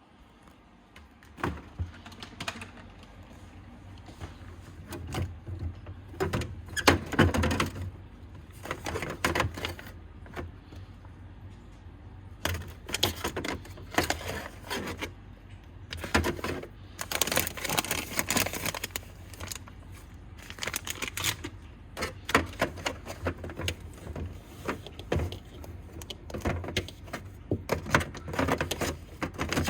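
Food packages and containers being handled and moved around in a refrigerator: irregular clatters, knocks and rustles, with a low steady hum underneath.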